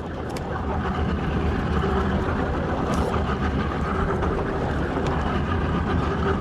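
Boat's engine running steadily under a constant wash of wind and water noise, with a few faint clicks.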